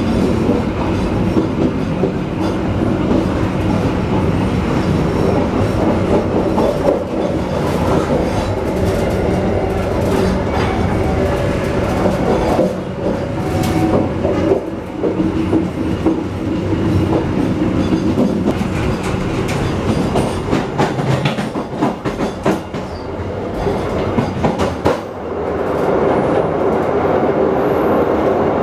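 Passenger train running along the track, heard from the rear end of its last coach: a steady rumble of wheels on the rails with scattered clicks. Near the end the sound turns louder and more ringing as the train rolls onto a steel truss bridge.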